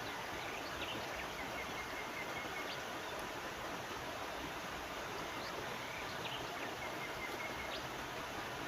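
Steady rushing of a river, with a few faint, short bird chirps and two brief twittering trills over it.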